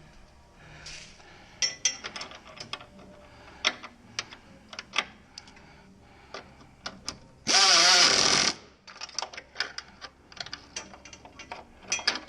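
Pneumatic air ratchet running in a single burst of about a second, a little past the middle, the loudest sound here. Around it, scattered metallic clicks and clinks of tools and hardware being handled.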